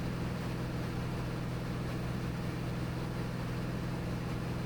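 Steady drone of a Cirrus SR22T's turbocharged six-cylinder engine and four-blade propeller in level cruise flight, with a constant low hum.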